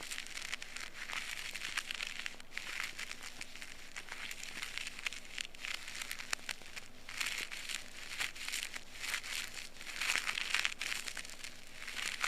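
Fine crackling and scratching of an ear pick working inside the ear canal, in uneven surges of dense little crackles.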